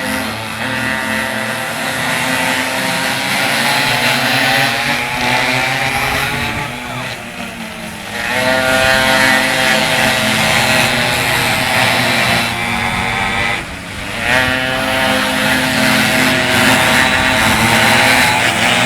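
Several minimoto pocket bikes' small two-stroke engines racing at high revs, their pitch rising and falling as riders accelerate, shift and pass. The sound dips briefly twice, about a third and two-thirds of the way through, then swells again.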